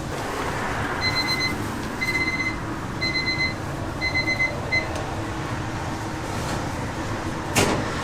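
An electronic beeper sounds four half-second beeps about a second apart, then one short beep, over a steady background rumble. A single sharp click comes near the end.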